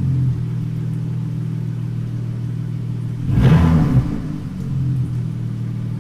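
Dodge Charger SXT's 3.6-litre V6 idling through an exhaust with an electric cutout and a muffler and resonator delete. There is one short rev about three and a half seconds in, after which it settles back to idle.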